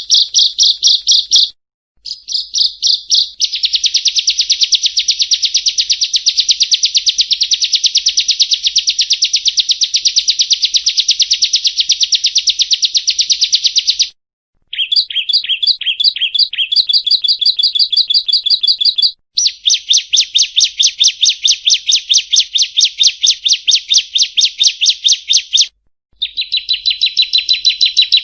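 Prinia (perenjak) song: fast runs of sharp, high repeated notes in long trills of several seconds each, broken by brief pauses. Around the middle the notes come more slowly and spaced out before the fast trill resumes.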